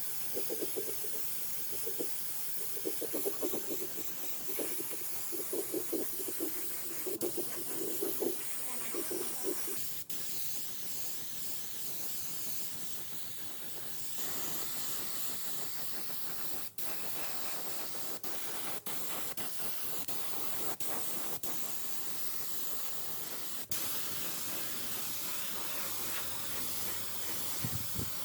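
Steady spraying hiss, broken by several abrupt short gaps, with a pulsing lower sound under it during roughly the first ten seconds.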